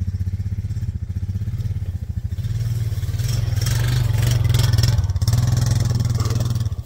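Four-wheeler (ATV) engine running with a steady low pulsing note, then revving louder as it pulls away about two and a half seconds in.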